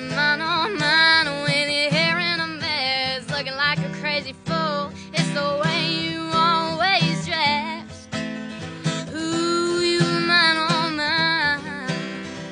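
A woman singing a country-folk melody with acoustic guitar accompaniment, holding one long note near the end.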